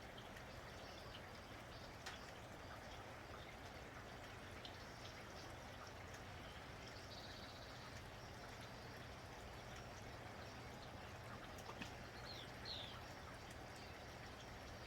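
Steady rain falling, with scattered faint drips. Two short bird chirps come about twelve and a half seconds in.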